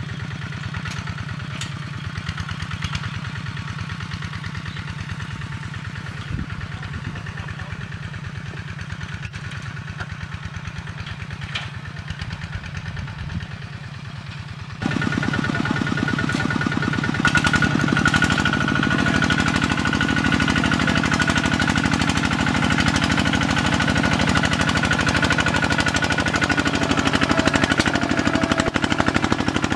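Tractor engine running steadily while ploughing, with a fast, even knocking pulse. About halfway through it suddenly becomes louder, with a steady whine above the engine note.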